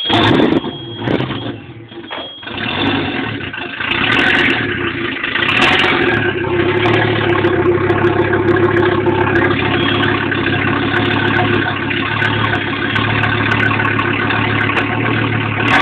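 Audi S2's turbocharged 2.2-litre five-cylinder engine running just after a start. It is uneven at first, picks up about four seconds in, then runs steadily.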